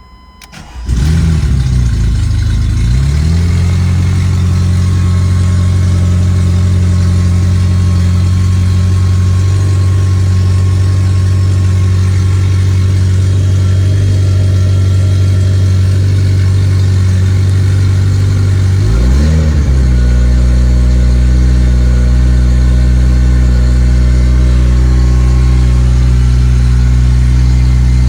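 1986 Ferrari Mondial 3.2's 3.2-litre V8 on a cold start: it fires about a second in, its speed sags and picks up again over the next couple of seconds, then settles into a steady fast idle. A brief dip and rise in engine speed comes about two-thirds of the way through, and the revs rise again at the very end.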